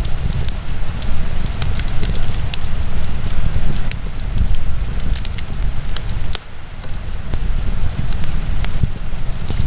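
Wood fire burning in a fireplace, with frequent irregular crackles and sharp pops over a steady low rush of the flames.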